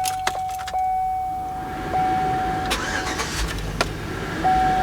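2007 GMC Yukon's 5.3L Vortec V8 being started: about two seconds in the starter cranks, the engine catches a second or so later and settles into a steady idle. A steady in-cab warning chime tone sounds throughout, dropping out briefly as the engine catches.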